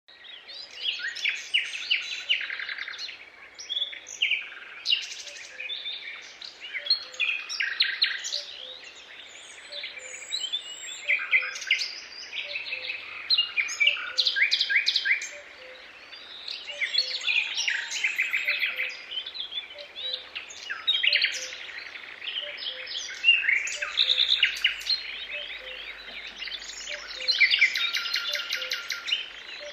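Forest birds singing in a daytime chorus: several birds overlap with trills, rapid chirp series and whistled phrases, coming and going in bursts of song.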